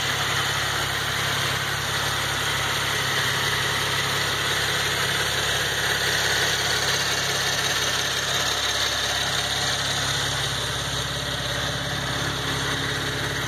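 A 2014 Cadillac ATS's direct-injected 3.6-litre V6 idling steadily, heard from the open engine bay.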